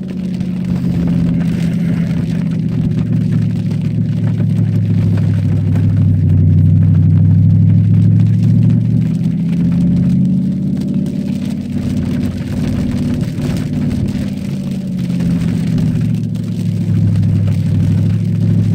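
Cadillac STS-V's supercharged V8 heard from inside the cabin, running at gentle part throttle on a wet track, its pitch easing down and climbing again a few times, over a light hiss of tyres and water on the road.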